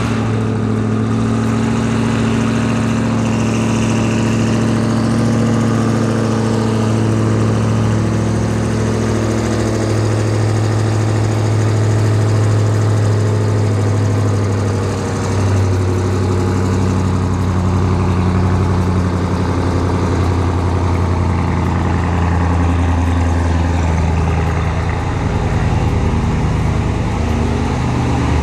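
Twin-turbocharged HEMI V8 of a Dodge Challenger SRT Demon idling steadily through its exhaust, with small changes in pitch now and then, and no supercharger whine.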